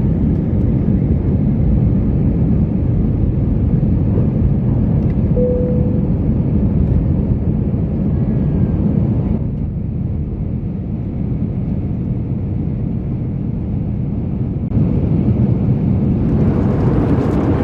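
Steady low rumble of an Airbus A319's cabin noise from engines and airflow, dulling for a few seconds in the middle and then filling out again.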